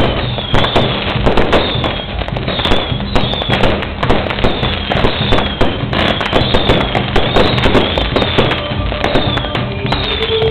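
Strings of firecrackers going off in a rapid, continuous crackle of sharp bangs, with a whistle-like falling tone repeating about twice a second.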